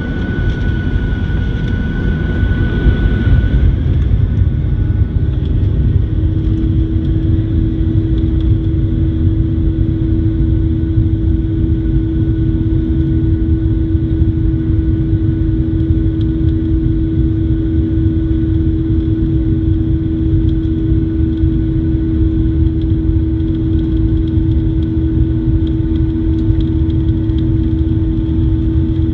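Jet airliner taking off, heard from inside the cabin: loud steady engine noise over a heavy low rumble. A high steady tone fades out about three seconds in, and a steady hum comes in a couple of seconds later and holds.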